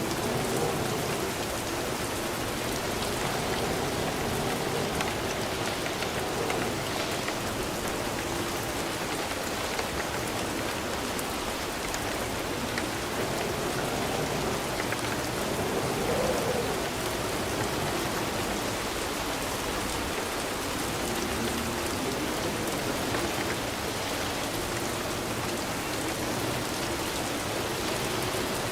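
Steady, continuous rainfall, an even hiss of drops with a low, wavering rush beneath it.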